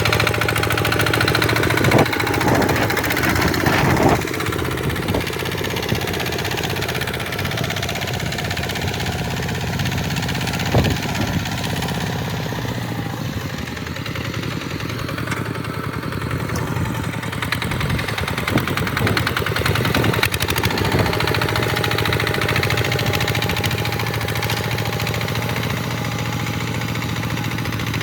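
Tractor engine running steadily, with a few sharp knocks about 2, 4, 11 and 20 seconds in.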